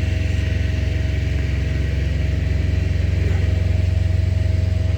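Auxiliary power unit (APU) engine running steadily, a constant low hum with a fixed higher tone over it.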